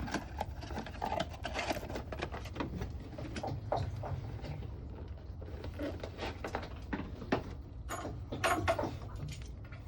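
Handling noises: irregular light clicks, taps and rustling as small parts and a gasket are handled and set aside.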